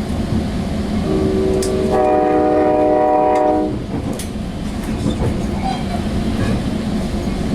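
Sounder commuter train's locomotive horn sounding one long blast, starting about a second in and lasting nearly three seconds, over the steady rumble of the train running on the rails.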